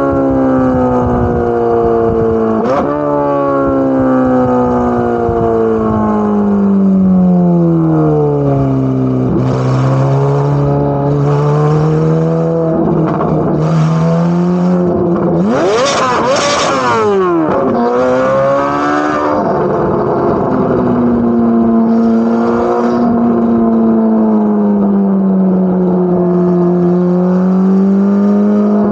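Corvette C8 Z06's naturally aspirated 5.5-litre flat-plane-crank V8 exhaust on the move. Its pitch sinks slowly for several seconds, climbs again, then holds a steady cruising note. Around the middle come short rushes of noise and a brief pitch sweep that rises and falls.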